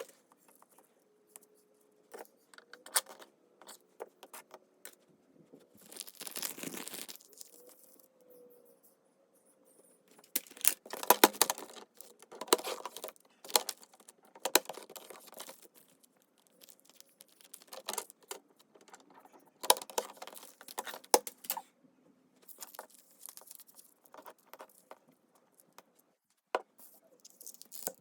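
Paper and craft materials handled at a desk: rustling, light taps and clicks, and a longer tearing or rubbing sound about six seconds in.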